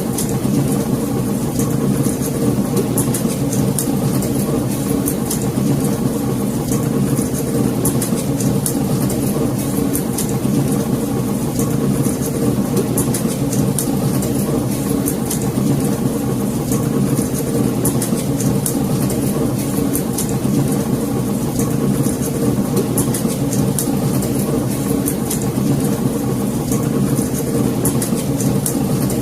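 Fire burning in a fireplace: a steady low rush of flames with many small, sharp crackles scattered throughout.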